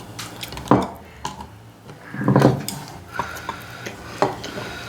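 Cutlery and plates clinking and clattering at a dinner table as food is served out, in scattered sharp clicks. A brief, louder dull sound comes about halfway through.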